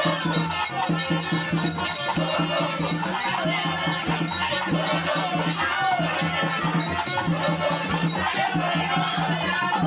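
Traditional percussion music with a low drum pattern repeating about once a second, and voices singing over it.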